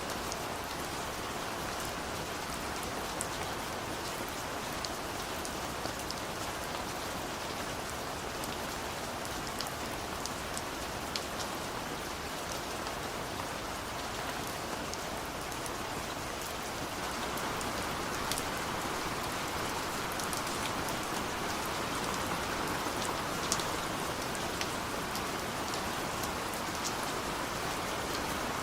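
Steady rain falling, an even hiss with many individual drops ticking on a surface. It grows a little heavier about two-thirds of the way through.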